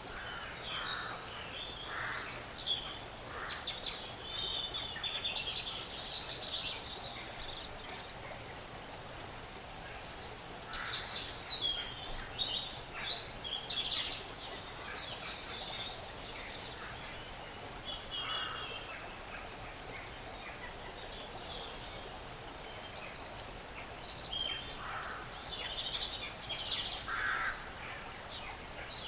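Small woodland birds chirping in several flurries of quick, high notes, over a steady background hiss of forest ambience.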